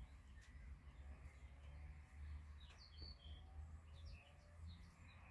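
Quiet outdoor ambience: a few faint, short bird chirps around the middle over a low, steady rumble.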